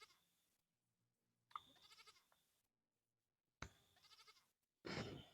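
Faint, short bleating calls like a goat's from an unseen animal, three of them a second or two apart, the last near the end the loudest.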